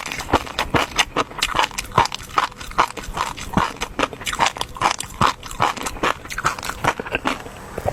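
Close-miked chewing of food in a mukbang: fast, irregular wet smacks and clicks of the mouth, several a second, easing off slightly near the end.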